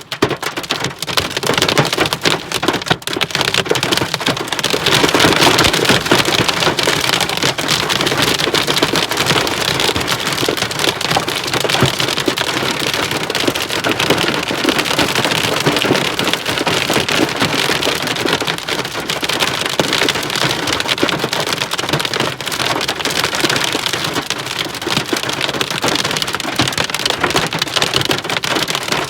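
Heavy rain pelting down on hard surfaces: a dense, loud patter of drops that swells about five seconds in.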